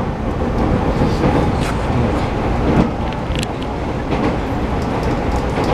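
Running sound of a JR East E217 series electric train heard from inside a passenger car: a steady rumble of wheels on rail with a few brief clicks scattered through.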